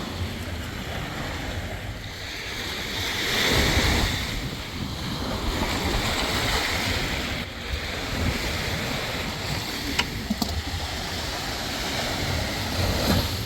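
Sea waves washing and wind blowing on the microphone, swelling and easing every few seconds, with a couple of sharp knocks about ten seconds in.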